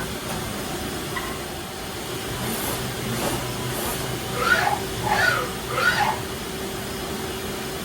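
Doosan Puma 2100Y CNC lathe running with a steady hum; about halfway, three short gliding squeals, evenly spaced and under a second apart.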